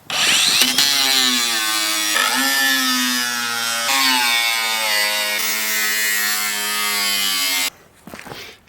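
Power tool cutting into the steel shell of a water heater tank, its motor pitch sagging and recovering under load. It starts abruptly and cuts off near the end.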